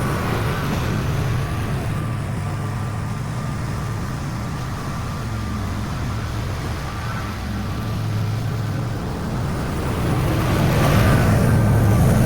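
Zero-turn lawn mower engine running steadily while cutting, growing louder near the end.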